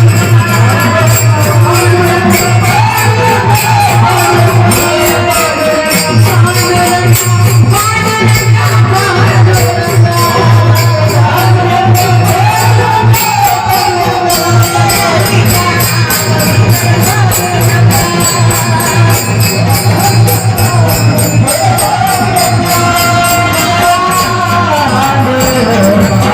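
Devotional kirtan music: a melodic vocal line that glides up and down, over a fast, steady jingling percussion rhythm and a constant low drone.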